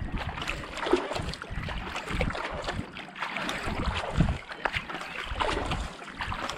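Kayak paddle blades dipping and pulling through canal water, with repeated splashes and drips off the blades, and wind rumbling on the microphone.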